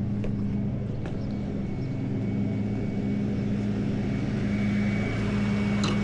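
A large truck's engine idling steadily, a low even hum, with a faint high whine over it and a light click near the end.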